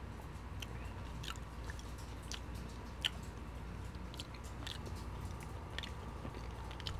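A person chewing a mouthful of poutine (soft fries, cheese curds and gravy), with scattered short, wet mouth clicks and smacks.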